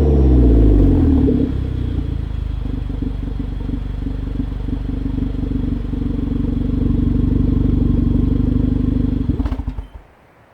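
Hyundai Genesis Coupe 2.0T's turbocharged four-cylinder, breathing through a 3-inch downpipe, test pipe and catback exhaust, settling from a falling rev into a steady low idle. The sound stumbles and falls away about nine and a half seconds in.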